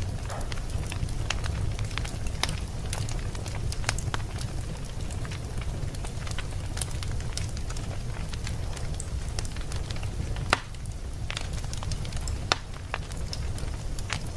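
Wood fire burning in a fireplace: a steady low rumble with irregular crackles and pops, two of them louder in the latter part.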